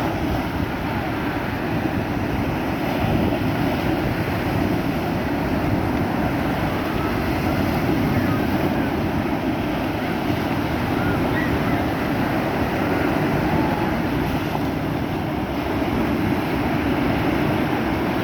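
Sea waves washing steadily onto the shore, with wind rumbling on the microphone.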